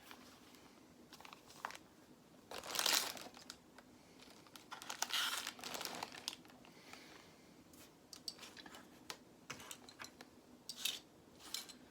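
Plastic Lego parts bags crinkling and small pieces clicking while being searched through by hand, in a few short bursts of rustling with scattered clicks between.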